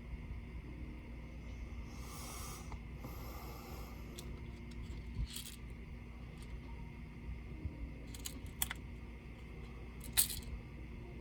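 Small handling noises on a laptop being worked on: a brief scrape or rustle early on, then a few sharp light clicks, the loudest near the end, over a steady low hum.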